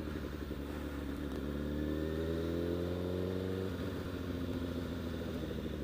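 Honda CBR1000RR's inline-four engine running under light throttle, its pitch rising slowly for a couple of seconds, then breaking off and dropping back about two-thirds of the way through.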